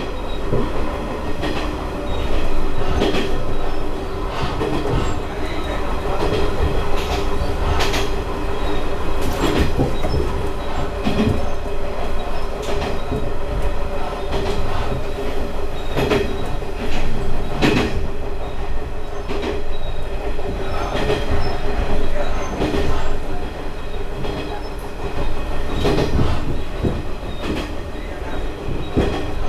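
Diesel railcar running along jointed single track, heard from inside the car: a steady engine and running hum with irregular sharp clacks as the wheels pass over rail joints.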